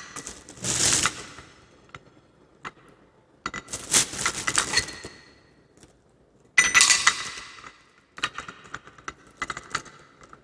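Small parts of an espresso machine being handled: clinking and rattling of hard metal and plastic pieces in three short bursts with rustling, then a run of light scattered clicks near the end.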